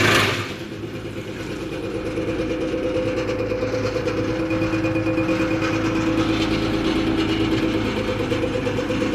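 A 15 kW wood chipper running steadily, a droning hum with a few steady tones, growing a little louder over the first couple of seconds. A loud rushing burst at the very start dies away within half a second.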